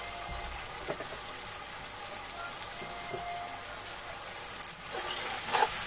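Vegetables and spice masala sizzling in hot oil in a pot, a steady hiss, with a few scrapes of a metal spatula near the end.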